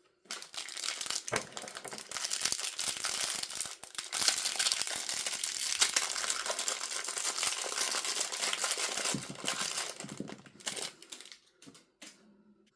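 Packaging crinkling and crumpling as it is unwrapped by hand: a dense run of crackling from just after the start until about ten seconds in, then a few shorter bursts before it dies away near the end.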